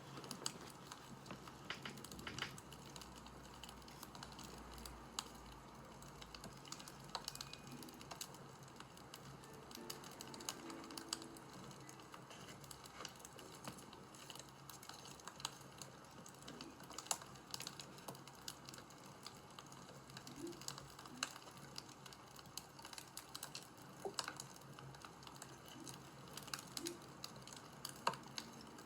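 Crackling fire: faint, irregular crackles and pops over a low steady hiss.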